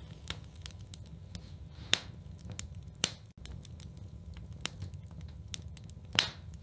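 Fireplace fire crackling: a steady low rumble with irregular small snaps and three louder pops, about two, three and six seconds in.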